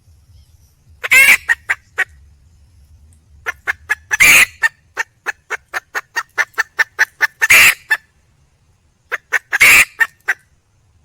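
Junglefowl hen calling for a male: four loud, harsh squawks about a second, four, seven and a half and nine and a half seconds in, with runs of quick short clucks, about four a second, between them.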